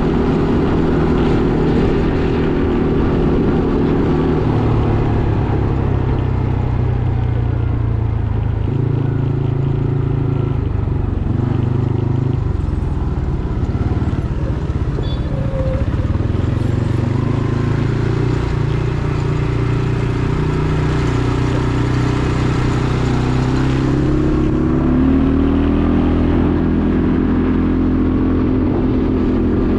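Quad bike engine running under way, its pitch rising and falling several times as the throttle and speed change.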